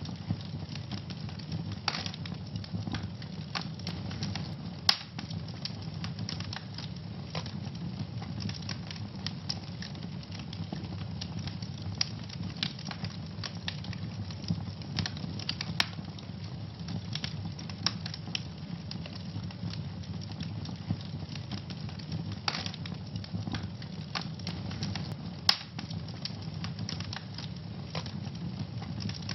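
Wood fire burning in a fireplace, crackling steadily with many small snaps and occasional louder pops over a low, steady roar of flame.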